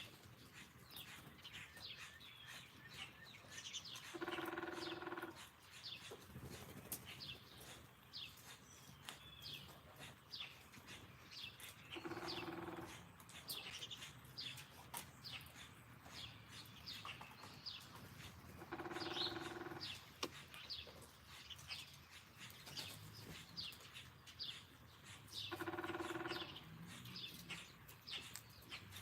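Small songbirds chirping constantly in quick, short downward notes. Four times, about seven seconds apart, a longer, lower-pitched steady call of about a second sounds over them.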